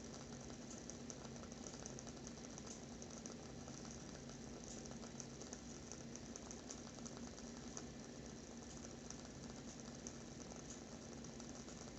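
Wooden wick of a WoodWick candle crackling: faint, irregular soft pops and ticks over a steady low hum.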